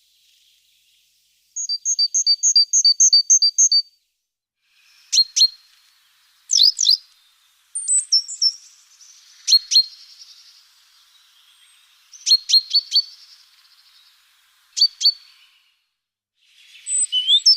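Small birds calling. About one and a half seconds in comes a fast run of about a dozen evenly spaced high notes, and after it sharp single and clustered chirps every second or two.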